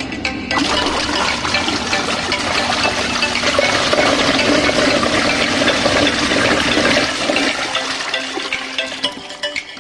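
Water rushing and swirling in a small portable washing machine's tub. It starts about half a second in and eases off near the end.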